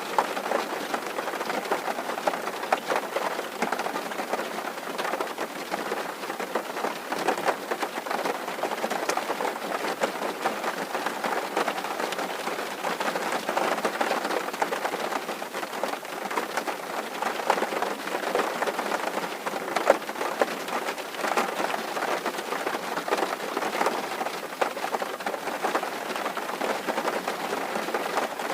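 Rain falling on a tin roof: a steady, dense patter of many drops, with now and then a single louder drop strike.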